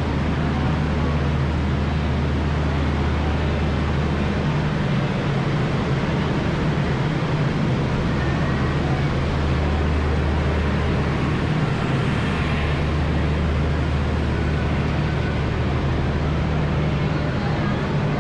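A large engine running steadily: a constant low drone under an even rushing noise, with no change in pace.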